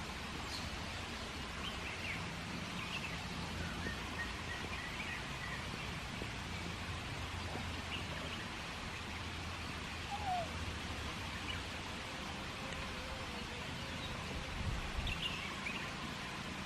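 Outdoor ambience: a steady background hiss and low rumble, with scattered faint bird chirps and a short falling call about ten seconds in.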